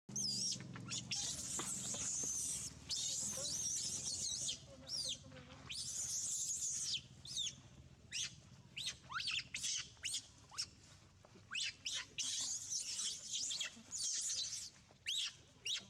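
Baby pigtail macaque screaming: long runs of high, wavering squeals broken by shorter squeaks.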